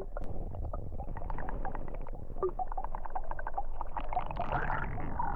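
Water heard from underwater, muffled: a steady low rumble of the churning pool with many small clicks and gurgles.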